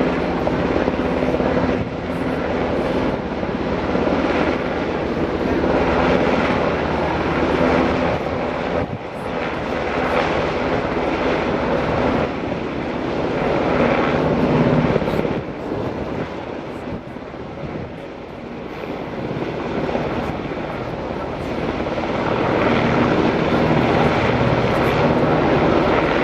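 U.S. Coast Guard rescue helicopter running close by, a continuous rotor and turbine sound with a rapid blade beat. It fades a little about two-thirds of the way through, then grows louder again near the end.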